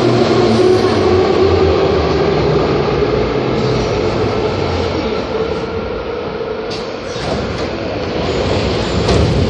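81-710 (Ezh3) metro train running on the rails, a loud steady rumble with the traction motors' steady whine. A few sharp clicks and knocks come in the second half.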